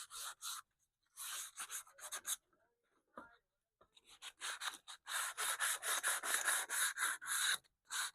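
Hand sanding of a wooden radio cabinet with sandpaper: quick back-and-forth rasping strokes, a short run near the start, a pause of about a second and a half, then a steady run of three to four strokes a second.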